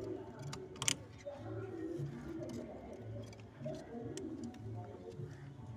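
Jacobin pigeons cooing, a run of low, throaty coos repeating about every half second to a second. A sharp click comes about a second in.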